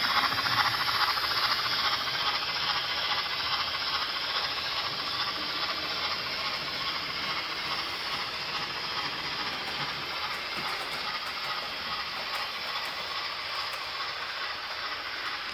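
DCC sound decoder of a 00 gauge Dapol Gresley A4 model steam locomotive running: a steady hiss of steam with fast exhaust chuffs from the loco's small speaker, growing quieter over the first few seconds, then holding steady.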